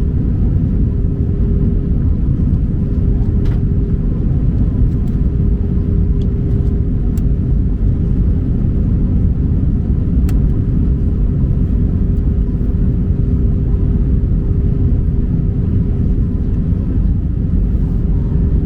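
Steady cabin noise inside an Airbus A319 in flight on its descent: a low, even rumble of engines and airflow with a constant hum running through it, and a few faint ticks.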